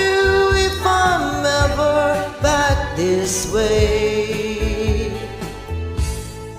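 A solo singer holding long sung notes, with vibrato, over a karaoke backing track. The song ends, and the music starts fading away near the end.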